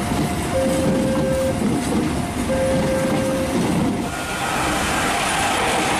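A passenger train's coaches rolling past with a steady rail rumble, under a repeating two-note tone, each note about a second long. About four seconds in the sound changes to a brighter rushing noise as another train approaches.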